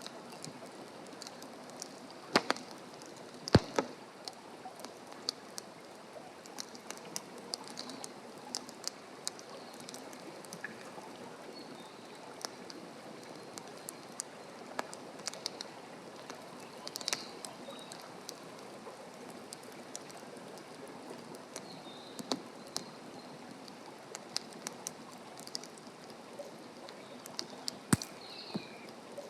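Wood campfire crackling: a steady hiss with frequent irregular sharp pops, the loudest a couple of seconds in and near the end.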